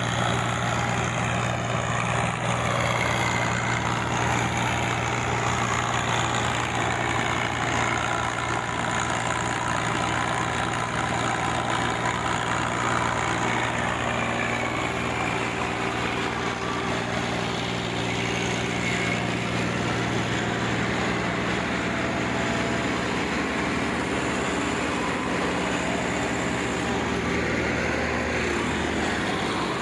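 Massey Ferguson 240 tractor's three-cylinder diesel engine running steadily, its note shifting slightly about three-quarters of the way through.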